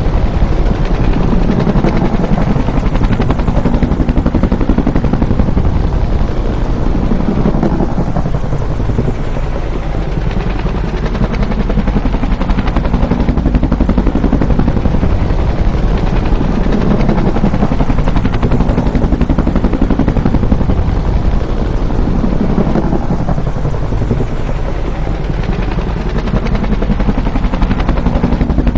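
Bell UH-1 Huey helicopter's rotor beating in a rapid, steady thudding rhythm, loud and continuous. It swells and eases in slow waves, dipping a little around a third of the way in and again near the end.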